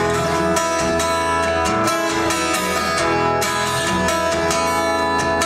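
Live instrumental interlude of a pop-rock song, guitar strummed, as recorded from the back of a club room.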